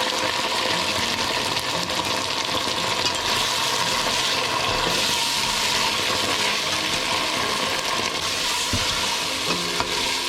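Onions, green chillies and ginger-garlic paste frying in ghee and oil in a pan, a steady sizzling hiss, as the paste is sautéed until its raw smell cooks off.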